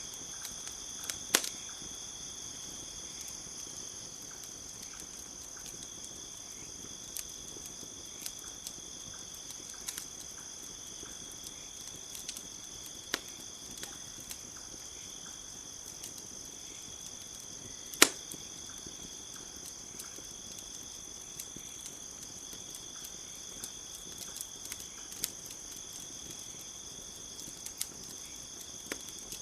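Wood campfire crackling, with scattered sharp pops; the loudest comes about two-thirds of the way in. Under it runs a steady, high-pitched chirring of night insects.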